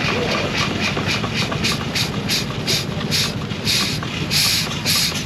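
Steam engine exhaust chuffing in a steady rhythm of hissing puffs, about three a second, over a low rumble, growing louder over the second half.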